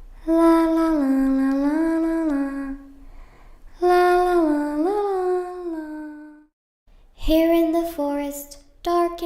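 A young girl's voice humming a slow tune in two long phrases, the notes held and sliding between pitches, then shorter sung notes in the last couple of seconds.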